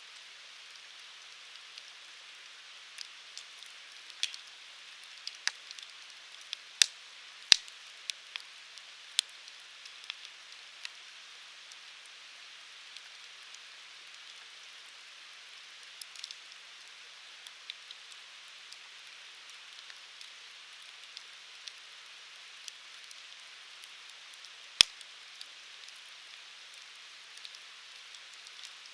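Wood fire burning in a Uniflame Fire Grill fire pit: a steady hiss with scattered crackles and sharp pops of the burning firewood, busiest in the first ten seconds, with one loud pop near the end.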